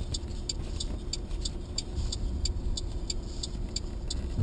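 Inside a moving car: the steady low rumble of the engine and road, with a regular light ticking of about three ticks a second.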